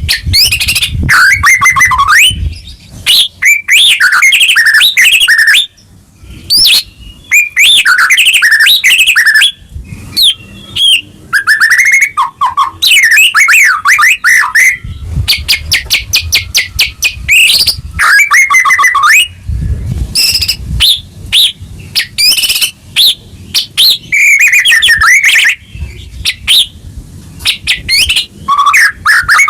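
White-rumped shama (murai batu) singing loudly and almost without a break. It strings together varied whistled phrases and trills, with a fast run of rapid repeated notes about halfway through. This is a full-emotion singing display of the kind used to provoke a caged shama into singing.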